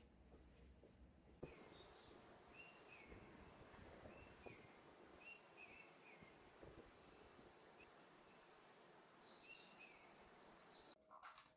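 Faint outdoor ambience with small birds chirping, short high calls repeated every second or so. Near the end the birds stop and a couple of sharp clicks follow.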